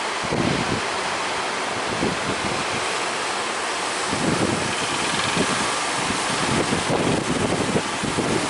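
Sea waves surging and breaking in strong wind, with gusts buffeting the microphone in irregular low rumbles.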